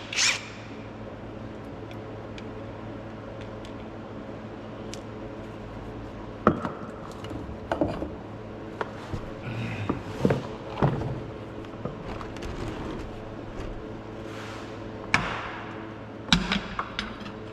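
Hand tools working on metal: scattered clinks and knocks of a wrench on a fitting, several in the second half, over a steady low hum.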